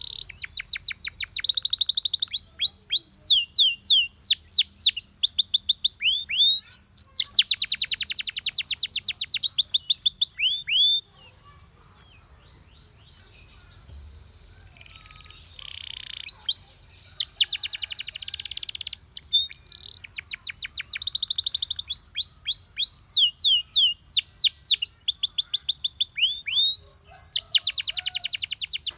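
Canary singing: runs of rapid repeated high whistled notes and dense rolling trills, each run a second or two long. The song falls to a few soft notes for about four seconds around the middle, then starts again.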